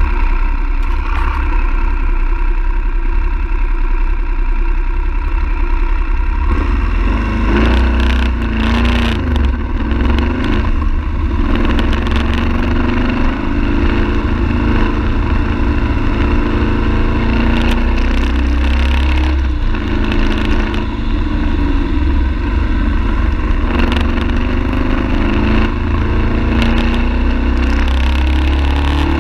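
BMW F 850 GS parallel-twin engine running as the motorcycle rides through bends, its note rising and falling a few times with the throttle, over a low rumble of wind and road noise.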